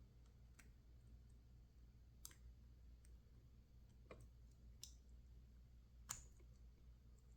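Near silence with a handful of faint, scattered clicks of a small metal tool probing a lock body.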